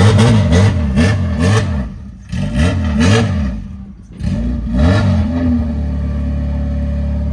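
Honda K24 four-cylinder engine in an Acura Integra revved in three bursts of quick throttle blips, then settling to a steady idle for the last couple of seconds.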